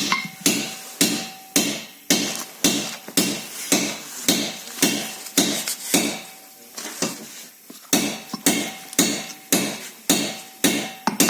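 Hammer blows on metal, about two a second, each with a short ringing note, easing off into lighter, irregular taps for a couple of seconds in the middle. This is hammering during the repair of a KNORR brake caliper.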